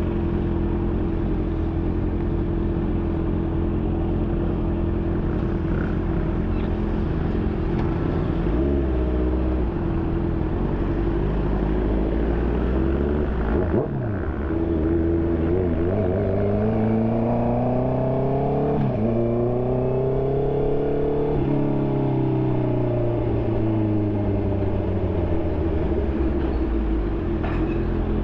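2020 Honda CB650R's inline-four engine through an SC Project exhaust, running steadily for about eight seconds, then pulling up in pitch through two gear changes, about halfway and two-thirds of the way in. The revs then fall away as the throttle closes near the end.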